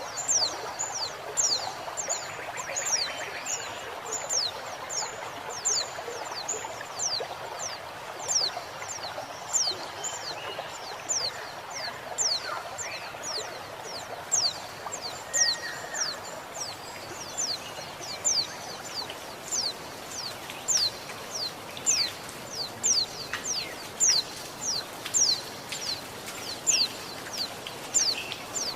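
Female white-eye (pleci) calling for a male with short, high, falling notes about twice a second, over a steady rush of flowing water, with occasional calls from other wild birds.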